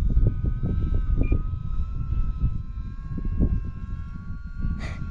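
Wind buffeting the microphone, with the steady whine of the E-flite Valiant 1.3M's electric motor and propeller as the plane comes in on a landing approach. Two sharp clicks near the end.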